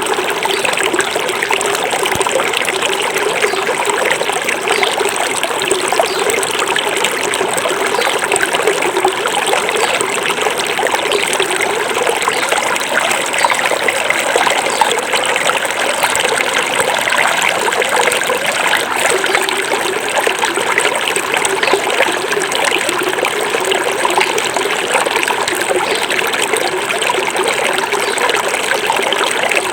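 A small forest stream flowing and trickling steadily over rocks, a continuous babble of water.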